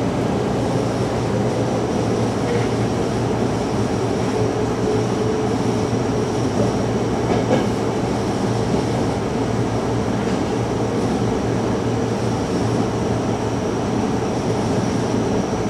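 Electric commuter train running along the track, heard from the driver's cab: a steady rolling rumble with a low hum and a thin, constant high whine, with an occasional faint tick from the wheels.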